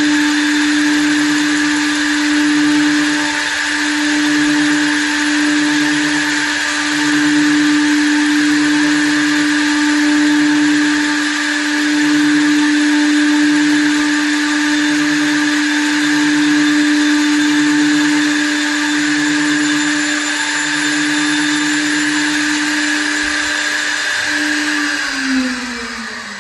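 Small-diameter CNC wood lathe running steadily with a high motor whine and a regular pulsing about once a second, then winding down, its pitch falling, near the end.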